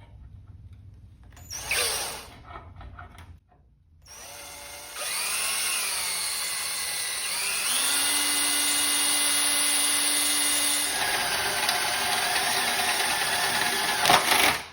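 Electric drill boring a hole through 16–18 gauge sheet steel. It starts about four seconds in, its pitch rises and falls as it speeds up and bites, then it runs steady until it stops near the end.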